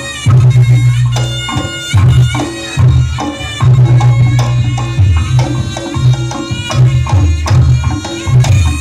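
Reog Ponorogo gamelan accompaniment: loud drumming with a heavy, pulsing low beat under a shrill, sustained reed-pipe melody of the slompret.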